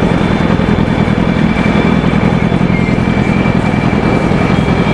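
Yamaha YZF-R1's 998 cc inline-four with a Yoshimura exhaust idling steadily while stopped.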